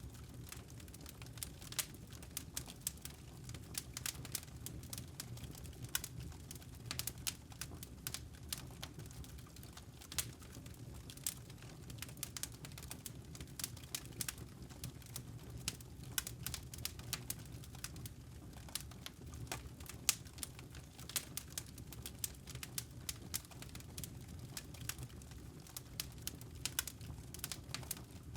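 Wood campfire crackling: frequent irregular sharp pops and snaps over a low steady rumble of burning logs.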